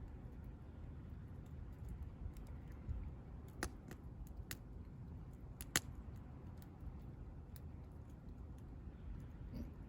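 Wood campfire crackling: scattered, irregular sharp pops of burning firewood over a low steady rumble, with two louder snaps about three and a half and six seconds in.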